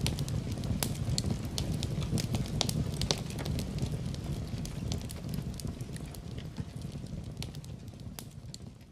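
Wood fire in a fireplace crackling: irregular sharp pops and snaps over a low, steady rumble of burning, gradually fading out toward the end.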